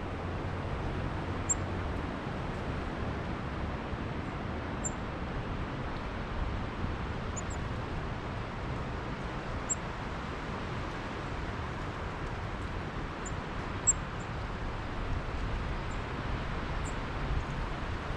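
Steady gusty wind, rumbling on the microphone and rustling the leaves, with about a dozen very short, high bird chips scattered through it.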